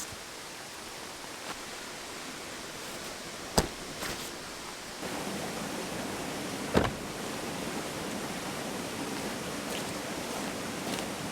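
Mountain stream flowing steadily, with two sharp snaps about three seconds apart.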